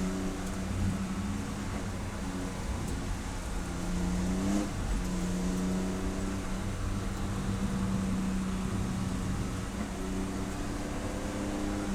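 Race car engine running at a steady pitch, with a short rise and dip in the note about four and a half seconds in before it settles again.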